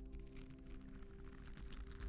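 Quick, uneven scratching strokes on a textured surface, over a soft sustained background music drone.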